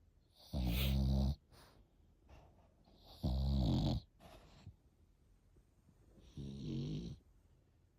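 French bulldog puppy snoring: three loud snores, each under a second long, about three seconds apart.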